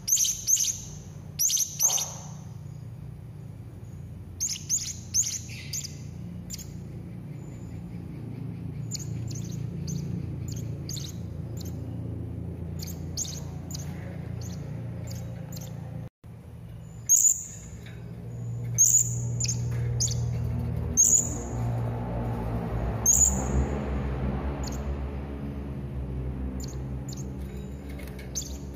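Serindit (hanging parrot) calling: short, sharp, high-pitched chirps in quick groups of two to four, over a steady low hum. The sound cuts out for an instant about 16 seconds in.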